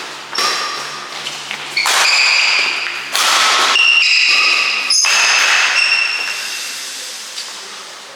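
A badminton rally: rackets strike the shuttlecock with sharp hits every second or so, while shoes squeak on the court floor.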